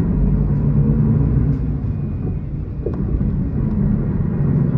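Diesel city bus running along the road, heard from inside the passenger cabin: a steady low engine and drivetrain drone.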